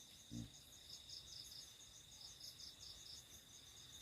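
Crickets and other night insects chirping faintly: a steady high trill with a rhythmic chirping of about four or five pulses a second above it. A single brief low thump about half a second in.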